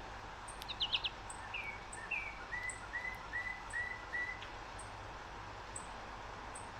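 A songbird calling: a quick cluster of three or four high notes about a second in, then a couple of notes, then a run of five evenly spaced, slightly falling notes, about two or three a second. A faint regular ticking runs throughout.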